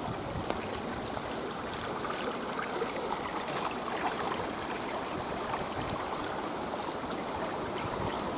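A river running steadily, with scattered faint ticks and taps over it.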